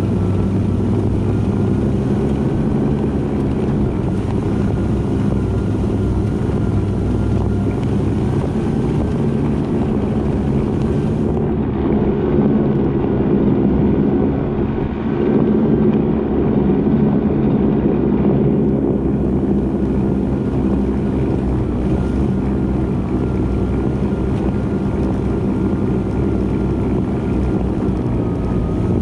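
A mini truck fitted with Mattracks rubber tracks, its small engine running at a steady speed while it drives, with track and drivetrain noise underneath.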